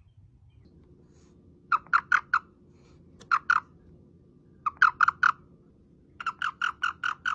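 An animal giving short, high, repeated calls in bursts of three or four, then a longer fast string of about six calls a second near the end.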